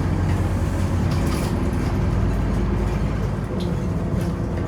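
Scania Omnicity city bus heard from on board while under way: a steady low diesel engine drone mixed with road noise, and a few light clicks and rattles.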